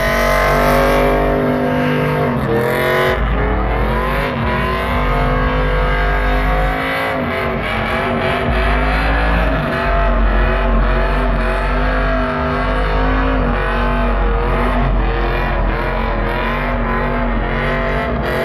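Pickup truck engines revving up and down over and over, with tire noise, as trucks spin donuts.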